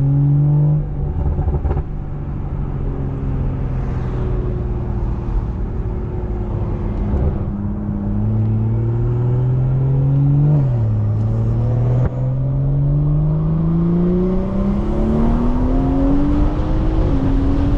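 Straight-piped BMW 340i with a big-turbo upgrade, its turbocharged inline-six accelerating hard through the gears. Revs drop back about a second in, then climb steadily and fall sharply at two upshifts, the second near the end.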